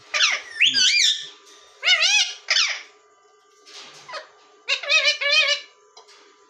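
Pet parrots calling: loud, short squawks with a wavering pitch, in a cluster at the start, two more about two seconds in, and a quick run of several near the five-second mark.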